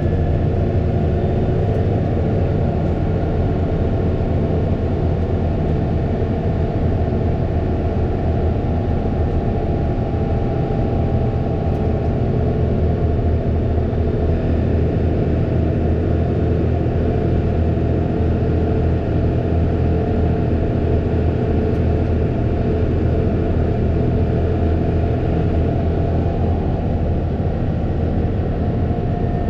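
Fendt 936 Vario tractor's six-cylinder diesel engine running steadily under load while driving, a continuous low engine drone with little change in pitch.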